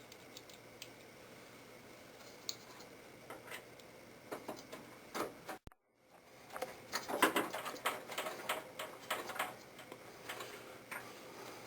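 Scattered light clicks, taps and rustling of hands handling components inside a desktop PC case, busiest in the second half, with a moment of dead silence about halfway through.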